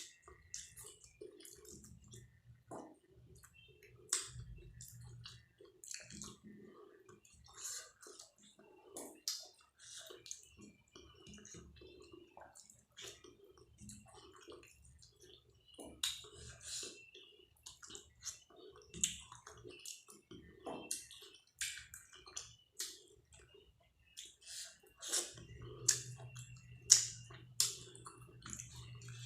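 Close-miked chewing, with irregular wet smacking clicks of the mouth, as a person eats dal, rice and vegetable curry.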